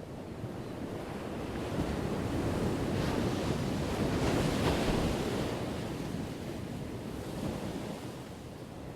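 Ocean waves crashing on a shore: a steady rushing surf that swells to a loud wave break about halfway through, then subsides.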